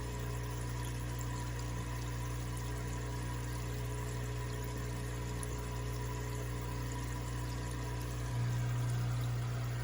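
Water pump running with a steady low hum over running water, as in the tank of an aquatic turtle. The hum gets a little louder near the end.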